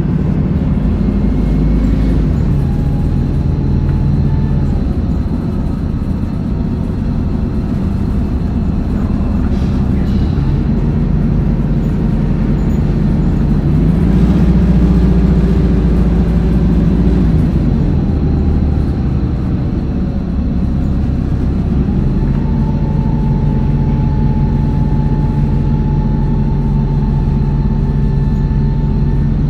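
Hino Blue Ribbon city bus under way, its diesel engine running and rising and falling in pitch as the bus speeds up and eases off, with a steady drivetrain whine in the last third.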